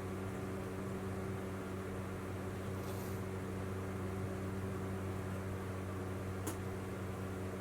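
Steady low mechanical hum from an indoor appliance, with a single faint click about six and a half seconds in.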